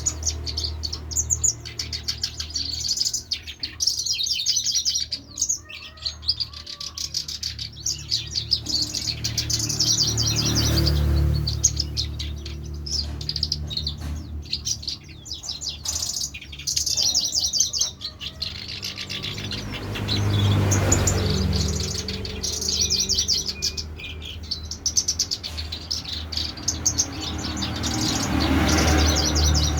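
A songbird chirping and singing in repeated rapid trills, over a steady low rumble of background noise.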